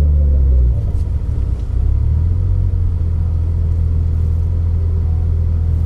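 Low, steady rumble of car engines, with a brief rise and fall in pitch in the first second.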